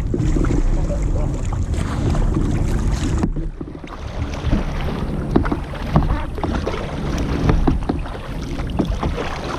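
Kayak paddles back-paddling, with blades dipping and splashing in the water and drips falling from them in many short sharp splashes. Wind buffets the microphone with a low rumble for the first three seconds, then drops away abruptly.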